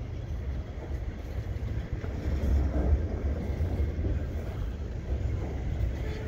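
Freight cars rolling across a railway overpass, a steady low rumble.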